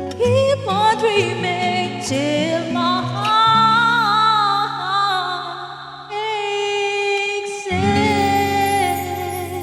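A woman singing wordless vocal runs that glide up and down in pitch over steady held accompaniment chords, in the closing section of a ballad cover.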